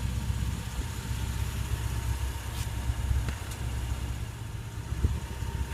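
Low, steady rumble of an idling engine, with a faint steady hum above it and a few light clicks.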